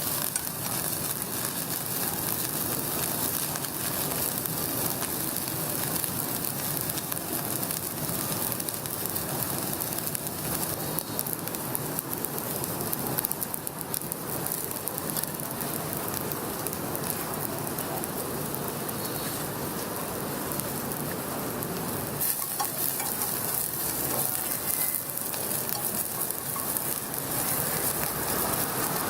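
Food sizzling steadily in a hot wok as it is stir-fried, a dense crackle throughout.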